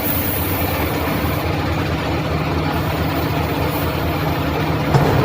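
An engine running steadily with an even low hum under a hiss.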